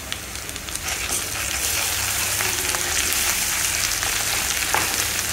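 Onions, ginger-garlic paste and turmeric sizzling in hot oil in a kadai. The sizzle grows louder about a second and a half in as a wooden spoon stirs the paste into the oil.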